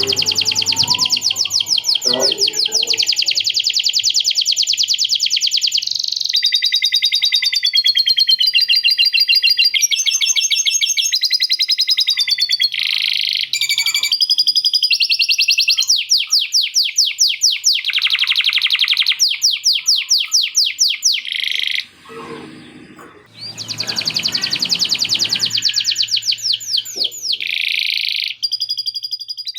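Male canary singing a long, loud song of very fast rolled trills and repeated notes that change pattern every second or two, its repertoire filled with learned lovebird 'ngekek' chatter. The song breaks off briefly about two-thirds of the way through, then carries on.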